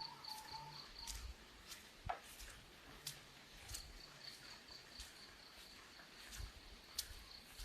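Sparse raindrops tapping on an umbrella as single irregular taps, one louder tap about two seconds in, over a faint, steady, quickly pulsing high insect chirp.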